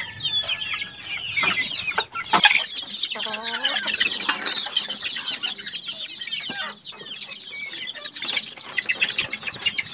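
A crowd of month-old heritage breed chicks, Rhode Island Reds among them, peeping continuously with many overlapping high chirps, and one longer call a little after three seconds in. A chick's wings flap briefly as it is handled, and there is a single sharp knock about two and a half seconds in.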